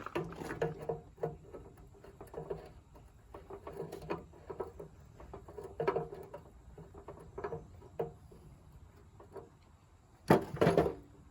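Scattered small knocks and clinks of hand tools being handled while working on a stuck bolt, with a louder clatter near the end.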